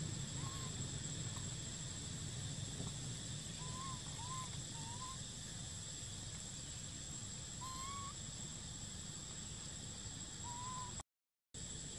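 A bird calling with short whistled notes, each rising and then dipping, scattered irregularly, over a steady high-pitched hum. The sound cuts out for about half a second near the end.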